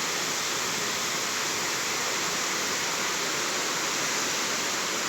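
Heavy downpour of rain: a steady, dense hiss with no breaks.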